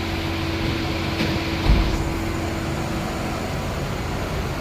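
Steady hum of a vehicle interior with the engine and air-conditioning running, with a faint click about a second in and a short low thump just before two seconds.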